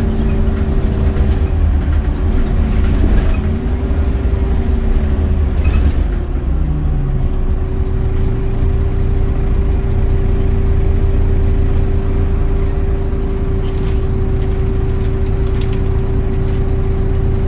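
Scania Omnicity bus running on the road: a heavy low engine and driveline rumble with a steady whine above it. The pitch shifts up and down for the first several seconds, then settles into a steady drone.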